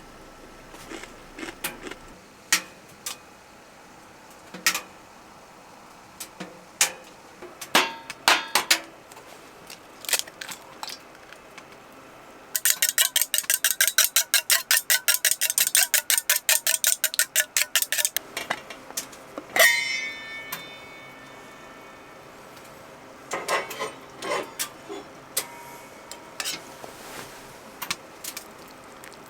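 Small metal items being handled: scattered clinks and knocks, a rapid run of clicks for about five seconds midway, then one ringing metal clink.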